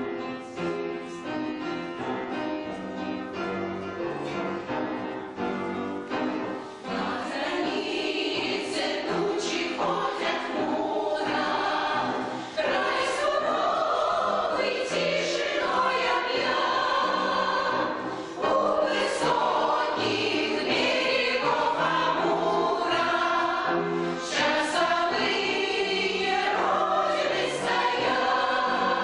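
Amateur veterans' choir singing a song in chorus with instrumental accompaniment. The accompaniment plays alone for the first few seconds, the choir comes in about seven seconds in, and the singing grows fuller and louder from about twelve seconds.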